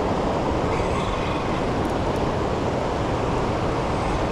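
Steady rushing noise of fast tailwater current below a hydroelectric dam, even and unbroken.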